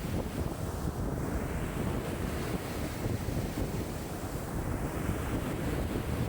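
Lake waves washing in strong wind of about 5 m/s, with wind buffeting the microphone as a steady low rumble.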